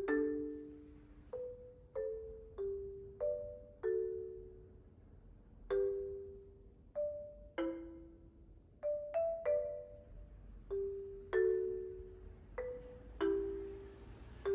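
Background music: a gentle melody of struck mallet notes, like a marimba, often two at a time, each ringing briefly and fading.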